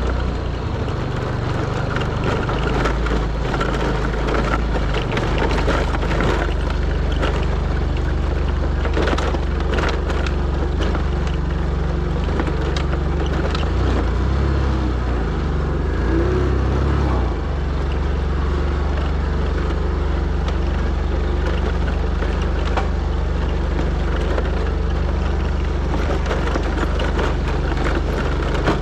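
A motor vehicle's engine running steadily on a rough off-road track, with scattered rattles and knocks from the bumpy ride.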